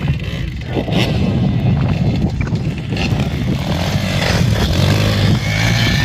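Small dirt-bike engine running and being revved, its pitch rising and falling as it is ridden.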